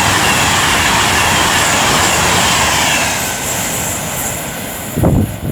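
Class 390 Pendolino electric train passing through at speed: a loud rush of wheel and air noise that fades away after about three seconds. A few low thumps follow near the end, like wind buffeting the microphone in its wake.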